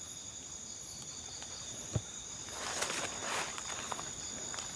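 Night insects trilling steadily in high, unbroken tones with a slow pulsing above them. A single sharp click comes about two seconds in, and a few soft rustles follow in the second half.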